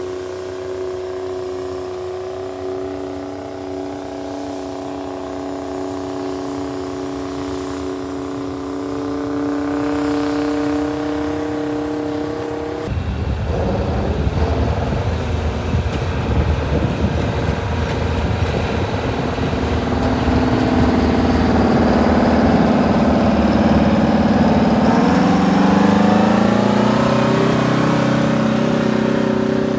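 Large farm tractor engines working while pulling plows: a steady engine drone that gives way about halfway through to a louder, rougher engine sound, whose pitch rises near the end.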